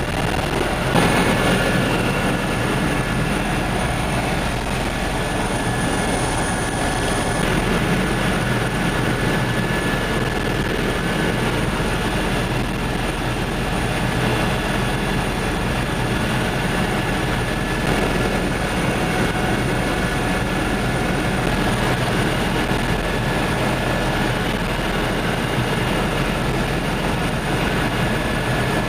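Helicopter engine and rotor noise heard from inside the cabin in flight: a steady, loud rush with a few thin steady whines on top.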